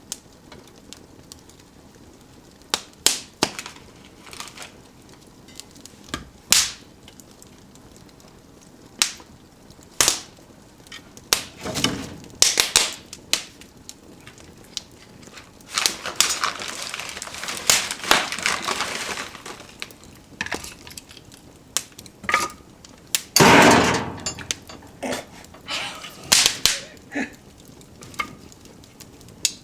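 Wood fire in a fireplace crackling, with sharp irregular pops and snaps. A stretch of hissing comes a little past the middle, followed by the loudest burst of crackling.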